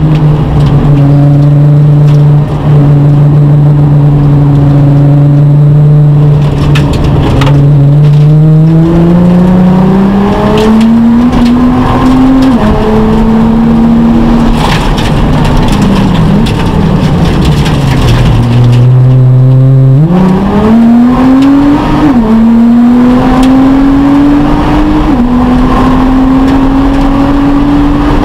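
Nissan GT-R R35's twin-turbo V6, heard from inside the cabin at racing speed. Its note holds steady through a corner for the first several seconds, then climbs under throttle with brief dips at gear changes, drops in pitch under braking in the middle, and climbs hard again through upshifts towards the end.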